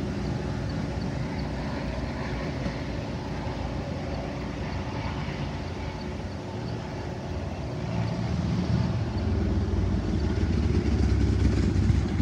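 Metra commuter train pulling away from the station: a steady low rumble from the train, swelling louder in the last few seconds.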